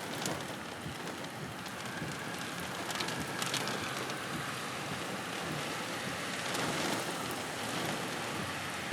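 Steady hiss of rain and wind, with a few sharp taps of drops hitting close by.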